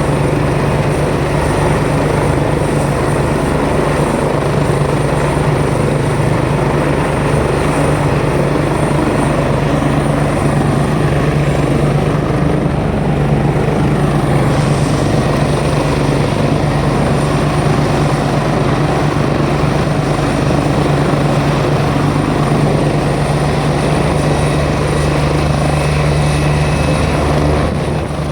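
Helicopter running close by, its rotor beating fast and steady over a strong, even engine hum.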